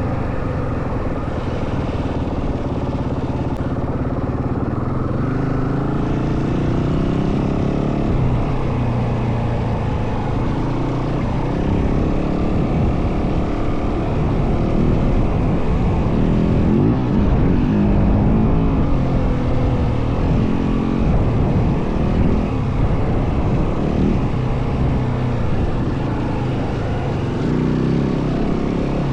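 Yamaha WR450F single-cylinder four-stroke dirt bike engine riding off-road, its revs rising and falling again and again as the throttle is opened and eased.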